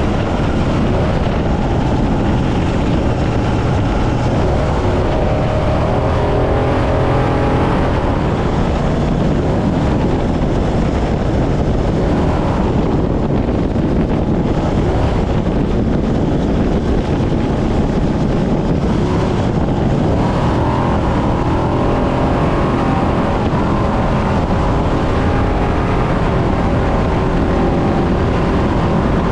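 Brenthel 6100-class trophy truck's engine running hard at speed, its pitch rising and falling with the throttle, over a constant rush of wind and driveline noise.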